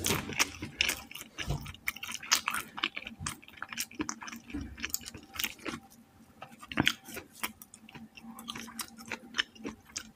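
Close-miked chewing of fried chicken: wet mouth clicks, smacks and crisp crackles, coming irregularly, with a fresh bite near the end.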